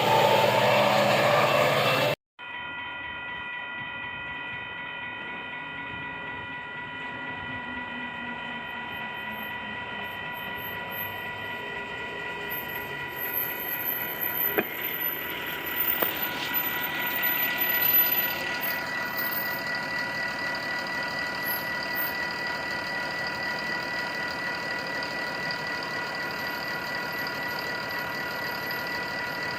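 About two seconds of music that cuts off abruptly, then a train: a steady high ringing tone with overtones over rumbling noise. The rumble grows louder a little past the middle, then eases.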